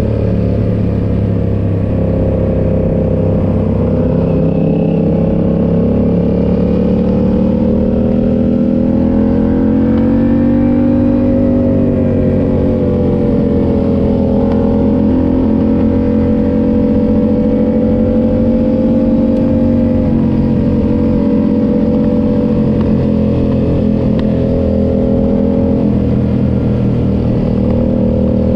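Yamaha MT-07's parallel-twin engine running at a steady cruise, its pitch rising a little about eight seconds in and easing back down a few seconds later.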